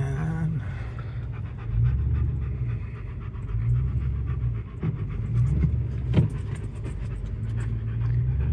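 Chevy Tahoe driving slowly through slick mud, its engine and drivetrain a steady low rumble from inside the cab, with a dog panting throughout and a sharp knock about six seconds in.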